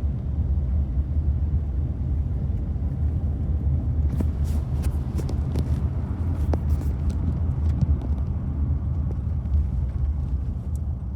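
Steady low rumble of a car driving, with a few short clicks about four to five seconds in.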